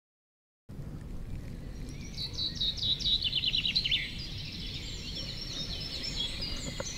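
Songbirds singing over a low steady outdoor background noise, after a brief silence at the start. One bird gives a quick run of notes falling in pitch that ends about four seconds in, and other birds keep chirping after it.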